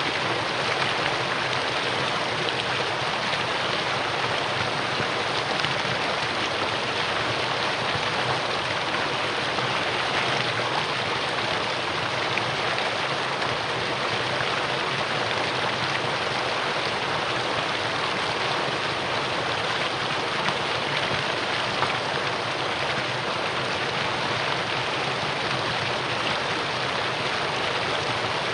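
Mountain valley stream flowing: a steady, even rush of water that does not change.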